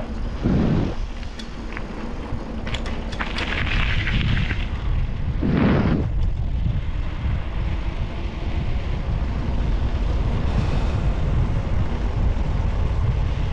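Wind buffeting a GoPro's microphone during a ride: a steady low rumble. A few sharp clicks and two short bursts of noise come between about three and six seconds in.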